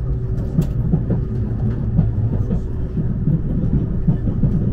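Seibu Laview express train running, heard from inside the passenger cabin: a steady low rumble with irregular thuds from the wheels over the rails and a steady hum.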